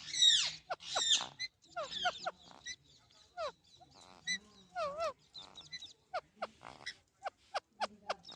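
Alexandrine parakeet calling: a quick run of short, harsh squawks and chirps, loudest in the first second or so, then a scatter of brief sharp notes, many sliding down in pitch.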